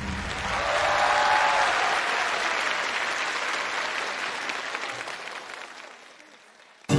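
Audience applauding, the clapping gradually dying away over several seconds before an abrupt cut near the end.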